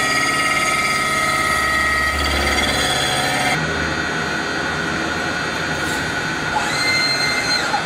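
CNC mill-turn machine machining a metal part: steady machine noise with a held high whine that shifts about three and a half seconds in, and a short higher whine near the end.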